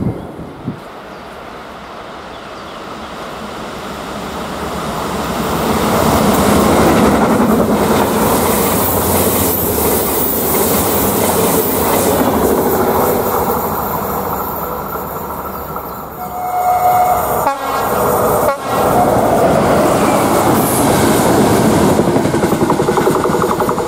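Passenger trains on an electrified mainline passing at speed, one after another. The first is a rushing noise that builds as it approaches and goes by; a short horn note sounds about two-thirds of the way through; near the end, coaches clatter past close by in an even rhythm over the rail joints.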